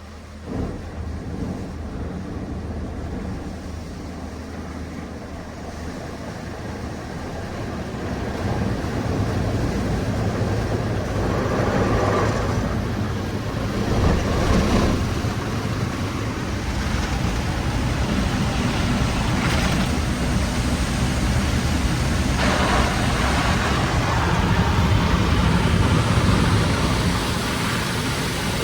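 Automatic tunnel car wash working over the car, heard from inside the cabin: a steady rush of water spray and washing equipment against the body, swelling louder several times as the jets and brushes pass.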